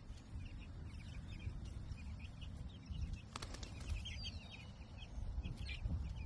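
Flock of young meat-bird chicks peeping, many short high chirps overlapping throughout, over a low steady rumble, with one sharp click about three seconds in.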